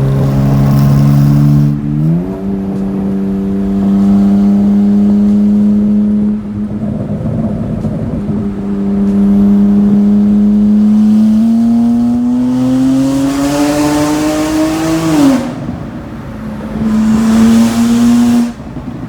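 BMW 335i's N54 twin-turbo straight-six, straight-piped from the turbos back with catless downpipes, being driven: the revs jump on a downshift about two seconds in and hold steady. They climb under acceleration until a sudden drop about fifteen seconds in, then rise once more near the end.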